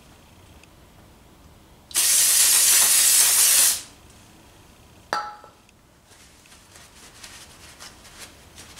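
Aerosol cleaner sprayed in one burst of about two seconds onto a moped's magneto stator and ignition points, cleaning them. A single sharp clink follows a little later, then faint rustling as the parts are wiped with a cloth.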